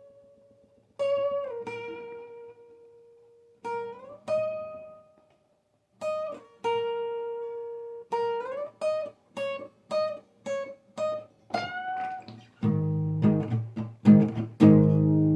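Guitar playing a slow lead line of single picked notes, several bent or slid up in pitch and left to ring. Near the end it changes to strummed chords.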